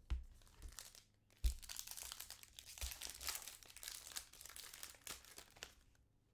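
Foil trading-card pack wrapper crinkling and tearing as it is ripped open and handled, with two low thumps, the louder one about a second and a half in.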